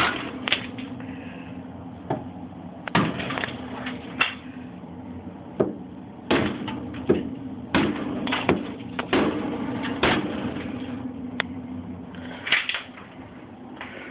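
Hammer blows striking and chipping at built-up ice inside a refrigerator, sharp irregular knocks at roughly one a second, with a steady low hum underneath.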